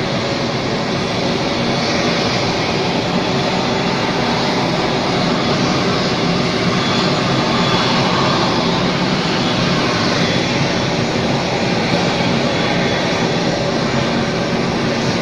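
Heavy rain falling steadily, an even, loud hiss that does not change.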